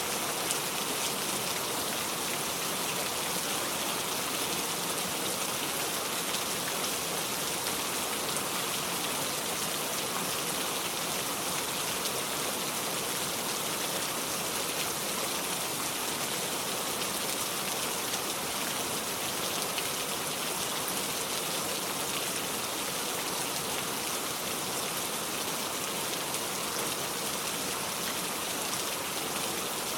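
Steady rain falling, a constant even patter with no change in strength.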